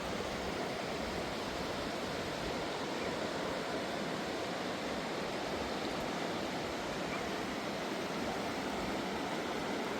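Fast mountain river rushing, a steady, unbroken noise.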